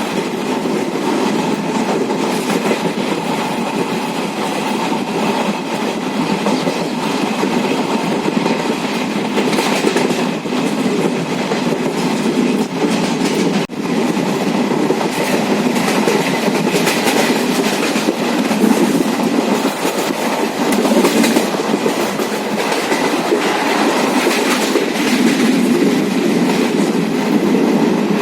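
Moving passenger train: the steady running noise of the coach and its wheels on the track.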